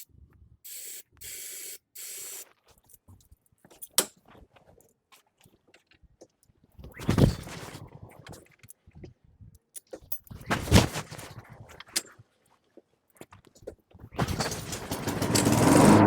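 Three short hisses of starting-fluid spray, then two pulls of the recoil starter on a Honda HRN216 mower's four-stroke engine. Near the end, a longer pull in which the engine sputters for about two seconds and dies without starting. The owner later blames this no-start on a carburetor jet he refitted wrongly, outside the float's channel.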